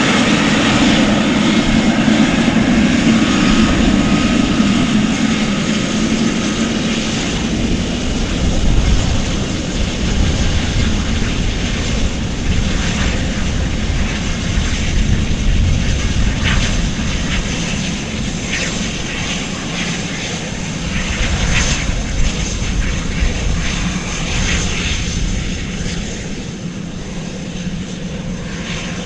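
Airplane engines running loudly, with a steady hum that is strongest at the start, and the noise slowly easing off toward the end.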